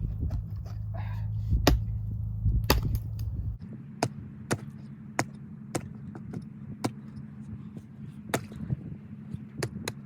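Frozen pond ice being chopped open with a hand tool: a long run of sharp strikes, roughly one every half second to second, under a steady low hum.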